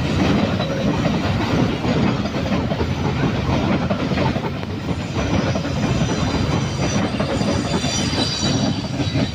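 A train passing close by, its wheels clattering steadily over the rails, with a faint high-pitched squeal near the end.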